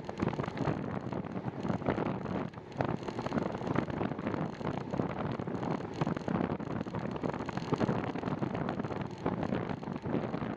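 Wind buffeting the microphone of a camera carried on a moving bicycle: a steady rushing noise with uneven flutter.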